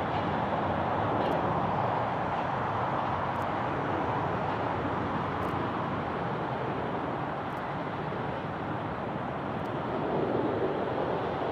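Jet airliner engines making a steady, even roar.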